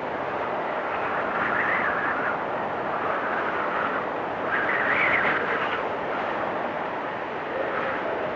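Blizzard wind blowing steadily, swelling in two gusts, about a second and a half in and again around five seconds in.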